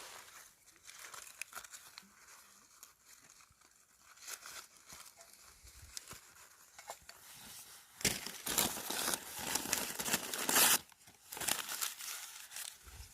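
Crinkling and rustling, faint and intermittent at first, then loud and dense for about three seconds from roughly eight seconds in, with more bursts near the end.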